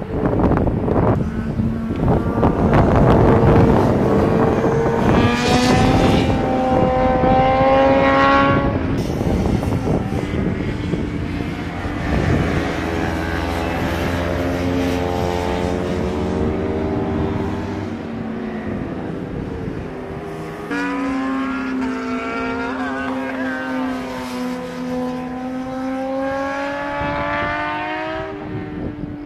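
Car engine running hard on a race circuit, its pitch climbing, dropping back and climbing again several times as it pulls through the revs.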